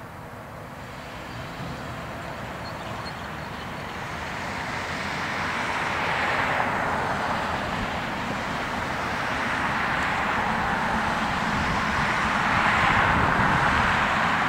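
Emergency vehicle sirens wailing in slow rising-and-falling sweeps over engine and road noise, growing steadily louder as the fire engine and ambulance approach.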